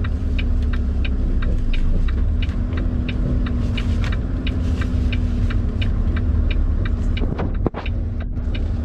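Semi truck's diesel engine running, heard from inside the cab as a steady low rumble with a hum, under a light regular ticking about twice a second.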